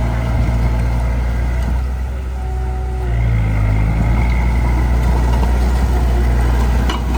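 Heavy diesel engine of earth-moving equipment running steadily with a deep hum. Its note drops briefly about two seconds in and picks up again about a second later.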